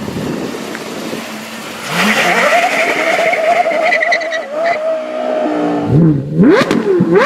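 Sports car V10 engine being driven hard, with a wavering squeal from about two seconds in that fits tyre squeal. Near the end the engine pitch sweeps rapidly up and down in quick revs.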